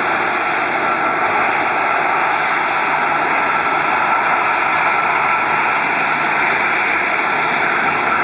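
Jet airliner engines running at steady power: an even rushing noise with a thin high whine, holding level without change.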